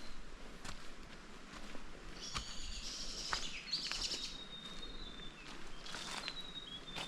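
Footsteps on a forest track at a steady walking pace, with birds calling: a bright burst of chirping about two to four seconds in, then thin, high whistled notes held through the rest.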